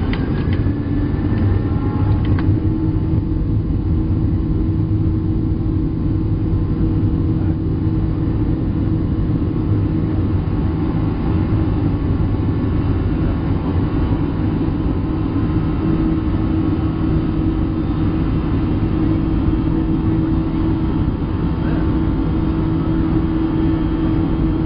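Boeing 737-700 cabin noise: the CFM56-7B engines and airflow make a steady, loud rumble with a constant low hum.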